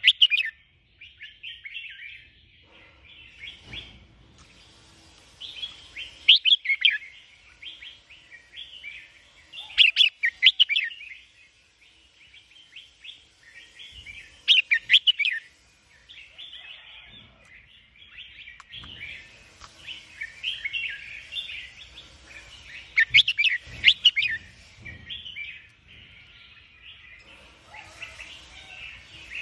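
A kutilang (sooty-headed bulbul) chirping and singing in quick, busy chattering phrases, with louder, sharper bursts of song every few seconds.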